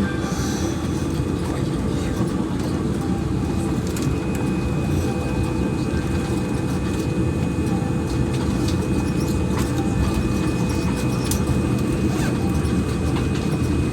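Cabin noise of a Boeing 787-9 airliner taxiing: a steady low rumble with a faint steady whine above it and a few light clicks and rattles.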